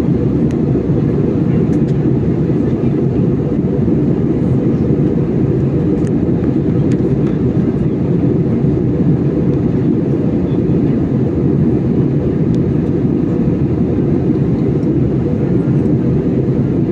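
Passenger airliner's steady low roar of engines and rushing air, as heard inside the cabin on the approach to landing.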